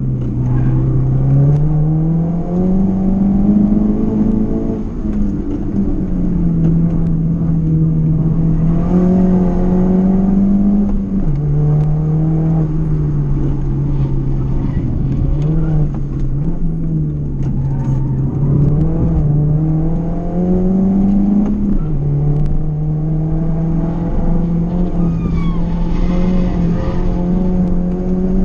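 Race car's engine heard from inside the car, driven hard up a twisting road. The engine note climbs and falls with the throttle and drops sharply at gear changes about eleven and twenty-two seconds in.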